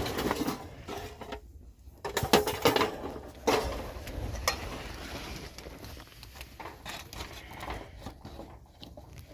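Objects being handled: irregular knocks, clatter and rustling, loudest between about two and three and a half seconds in.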